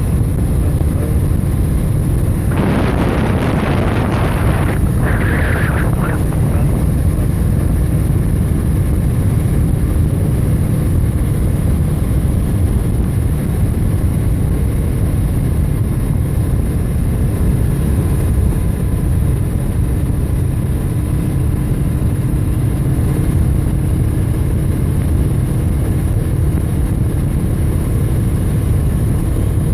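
Steady low rumble of wind buffeting the microphone and road noise on a moving bike, with a louder rush about three to six seconds in.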